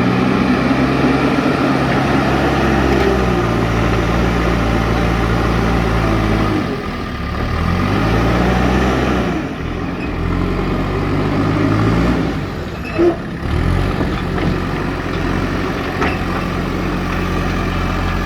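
Diesel engine of a JCB backhoe loader running hard while it works, its engine speed dropping and rising again a few times. A brief loud knock about thirteen seconds in.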